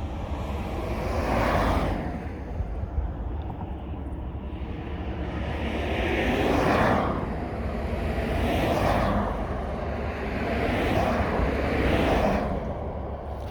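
Vehicles passing one after another, each a whoosh of tyre and engine noise that rises and falls over a couple of seconds, four in all. Underneath runs a steady low rumble of wind on the microphone.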